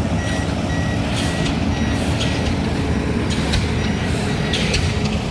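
Pile-driving rig with a DD65 diesel hammer at work: a steady, heavy low rumble with sharp strokes about once a second. A repeating high beep sounds over it.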